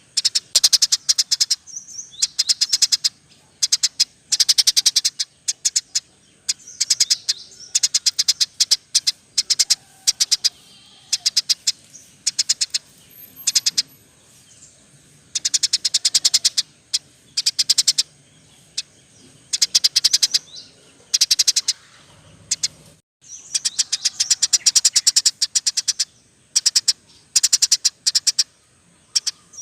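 Caged birds chattering in rapid, clicky trills between about 2 and 10 kHz, coming in repeated bursts of one to three seconds with short gaps between them.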